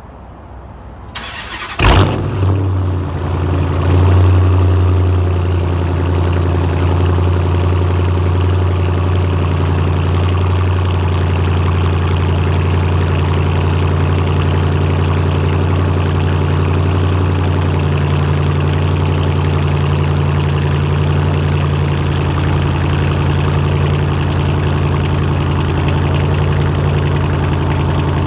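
2014 Dodge Challenger R/T's 5.7-litre HEMI V8 with a straight-pipe exhaust on a cold start: the starter cranks briefly, the engine catches about two seconds in with a loud burst, then settles into a steady, loud cold idle.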